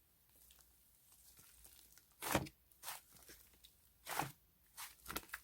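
A few short crunching, crinkling sounds at uneven intervals, starting about two seconds in.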